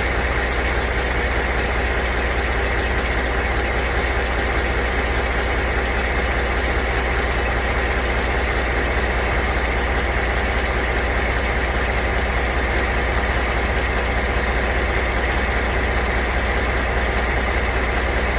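Caterpillar 3406E inline-six diesel engine idling steadily, still cold soon after a cold start.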